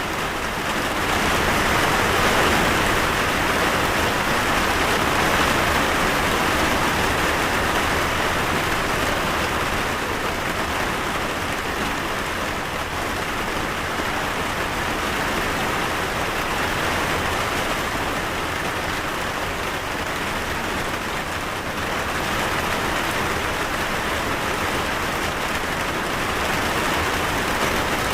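Steady rain falling, a dense even hiss of drops on surfaces, swelling slightly about a second in.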